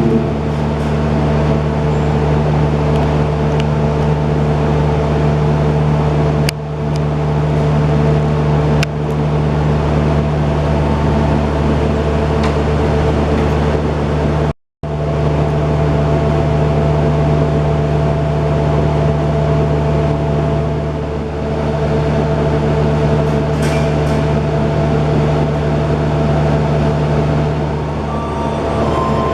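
Passenger train running: a steady rumble with a constant machine hum. The sound cuts out abruptly for a moment about halfway through.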